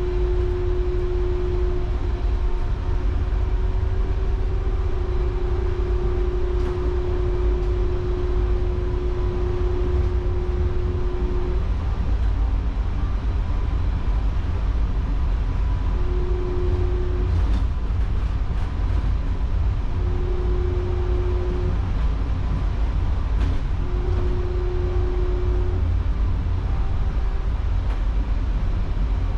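Taipei Metro Brown Line rubber-tyred train running, heard from inside the car: a steady low rumble with a humming tone that holds for several seconds at first, then comes and goes in short spells. A few faint clicks come about two-thirds of the way through.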